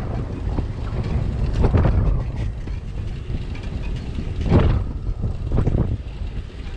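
Wind buffeting a bicycle-mounted action camera's microphone while riding, a steady low rumble mixed with street and traffic noise, with a brief louder swell about four and a half seconds in.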